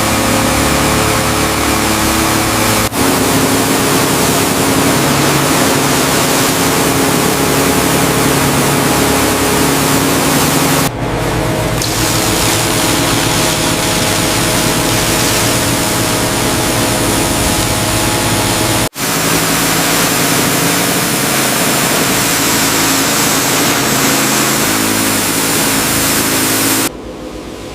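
Loud, steady machine noise: an engine-like drone with steady tones under a heavy hiss. It changes character abruptly three times and drops away sharply just before the end.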